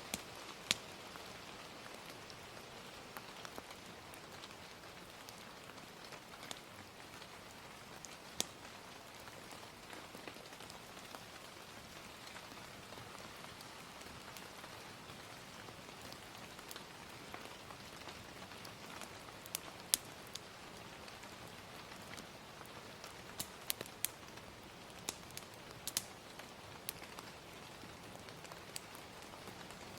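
Soft, steady rain mixed with the occasional sharp pop and crackle of a wood fire, the pops coming singly at first and then in a small cluster in the last third.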